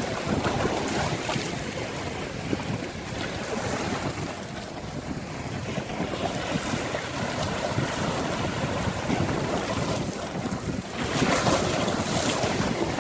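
Sea waves breaking and washing on the shore, with wind rushing over the microphone. A louder wave surges in about eleven seconds in.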